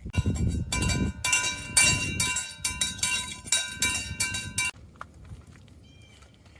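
Metal rattling and clinking with a bright ringing tone, a rapid run of knocks that stops suddenly about four and a half seconds in.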